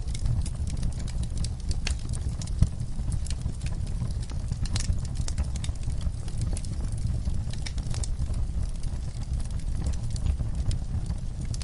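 Wood fire burning in a fireplace: a steady low rumble with irregular crackles and pops, one sharper pop a little over two seconds in.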